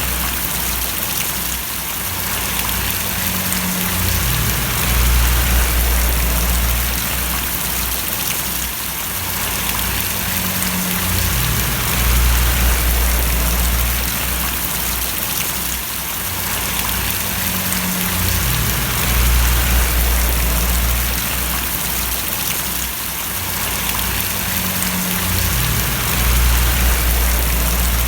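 Steady rain falling and splashing on surfaces, with a low rumble that swells and eases about every seven seconds.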